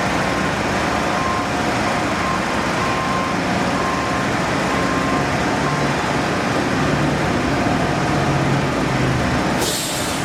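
A heavy vehicle's engine running at a work site, with a reversing alarm beeping through the first few seconds and a brief hiss near the end.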